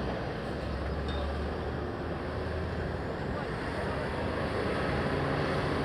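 Large trucks' engines running steadily over road noise, a low hum that shifts a little higher about two-thirds of the way through.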